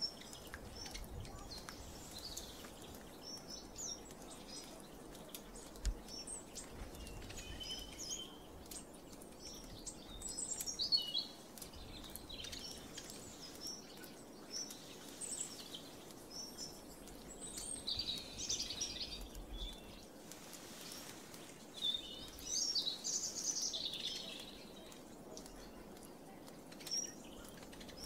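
Small birds chirping and twittering in scattered bursts of short high calls, over a faint steady background hiss.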